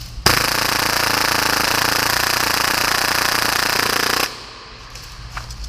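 Full-auto Tokyo Marui Hi-Capa airsoft pistol firing one continuous burst of about four seconds at around 30 rounds a second, its blowback slide cycling in a fast, even rattle, then stopping suddenly as the magazine runs dry.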